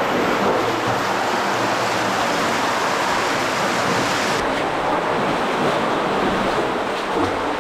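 Cave spring stream rushing steadily, running high after heavy rain. The upper hiss thins a little over halfway through.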